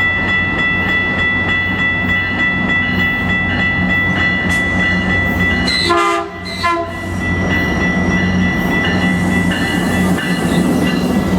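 Train passing with a steady low rumble and a continuous high ringing tone. A short train horn blast sounds about six seconds in.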